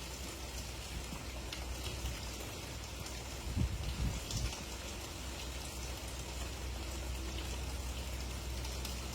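Steady rain falling, with single drops pattering close by. A few brief low thumps come about three and a half to four and a half seconds in.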